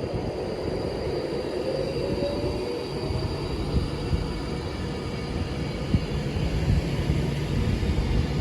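Train running on the rails with a steady rumble, a faint tone that rises slightly, and a couple of sharp clicks partway through.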